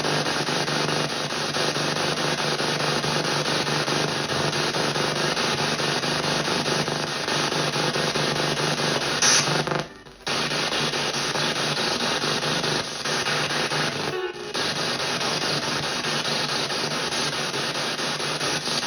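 PSB7 spirit box in reverse sweep, played through stereo speakers: a steady hiss of radio static as it scans. Just over nine seconds in there is a brief louder blip, then the static cuts out for a moment; it drops again briefly around fourteen seconds.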